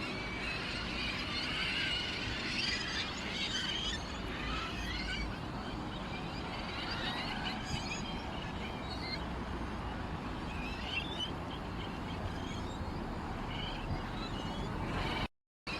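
Small birds chirping and twittering, busiest in the first few seconds and again in the middle, over a steady low background noise; the sound cuts out for a moment near the end.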